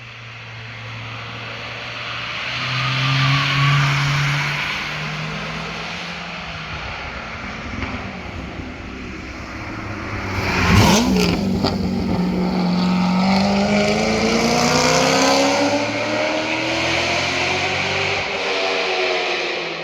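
Performance cars passing at speed with exhaust notes swelling and fading. One passes close about halfway through with a sharp crack, then an engine pitch climbs steadily as the car accelerates away.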